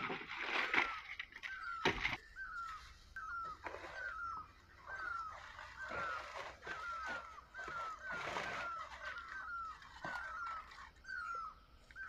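A bird repeating a short, hooked call note two or three times a second. Over it come rustling of large leaves being handled and a couple of sharp knocks near the start.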